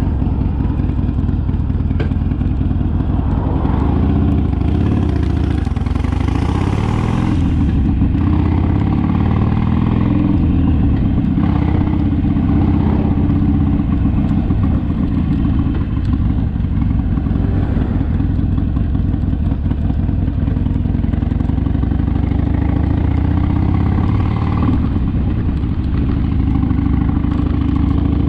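Harley-Davidson Sportster's V-twin engine running while riding, its pitch rising and falling gently as the speed changes. A brief hiss comes in about five seconds in and stops a couple of seconds later.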